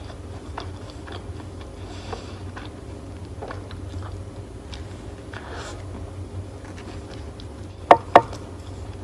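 Close-miked biting and chewing of a burger, with small wet mouth clicks throughout. Two sharp clicks about a third of a second apart near the end are the loudest sounds.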